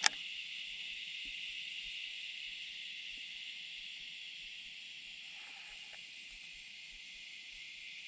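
Steady high-pitched insect chorus, with a single sharp click right at the start.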